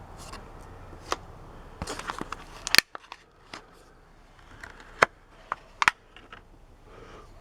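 Plastic toy packaging being handled and pulled off: scattered clicks and crackles, with a few sharper snaps about three, five and six seconds in.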